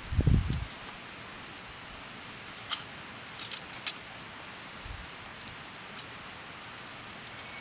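Outdoor ambience: a steady hiss with a dull low thump right at the start, a few faint scattered clicks, and a brief run of faint high chirps about two seconds in.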